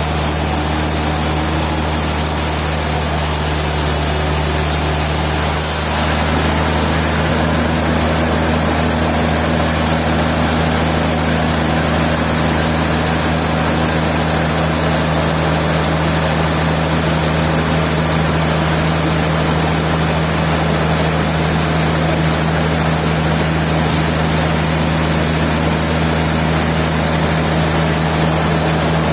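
Sawmill machinery running steadily with a constant low engine hum. About six seconds in, a high hiss stops and the pitch of the drone shifts slightly.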